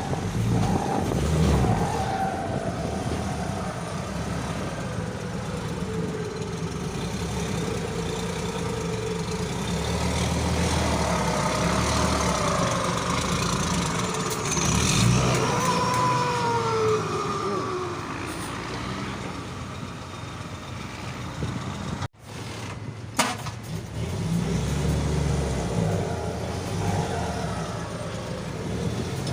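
Vehicle engine running and revving through a loud exhaust, its pitch rising and falling, on a stock tune that has not been remapped. The sound drops out briefly about two-thirds of the way in.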